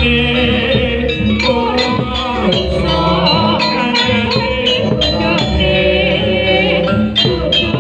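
Live jaranan accompaniment music: a traditional Javanese percussion ensemble beating a steady rhythm under a wavering melody line.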